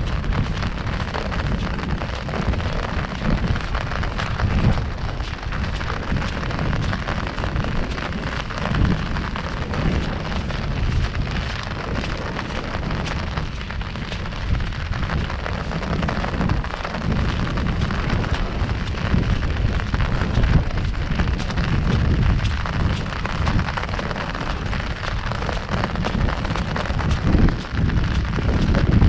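Heavy rain falling on an umbrella canopy: a dense, steady patter of countless small drop hits over a deep low rumble.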